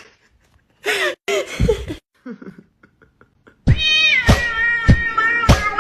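A cat meowing in short calls, two or three times. Music with a steady beat starts about two-thirds of the way through.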